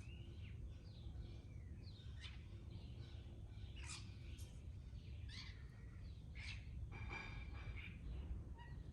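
Several garden birds chirping and calling in short, sweeping notes, with a buzzy trill about seven seconds in, over a steady low rumble.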